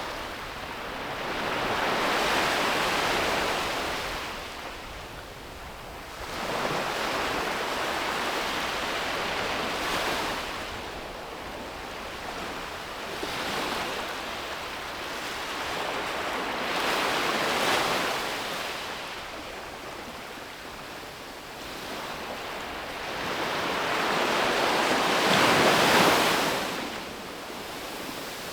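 Ocean waves breaking and washing up a beach, the surf swelling and fading in slow surges every several seconds, the loudest near the end.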